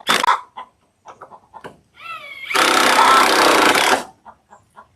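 Cordless impact driver driving a fastener into the wooden form boards: the motor spins up with a rising whine, then the driver hammers loudly for about a second and a half and stops abruptly. Chickens cluck before and after.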